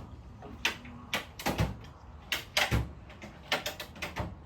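Rummaging through a tool chest: drawers sliding and shutting and tools clattering inside, a quick irregular series of sharp clacks and knocks.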